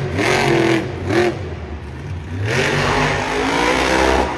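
Monster truck engine revving in several pulls: two short blips in the first second or so, then a longer rev that climbs in pitch and holds for nearly two seconds near the end.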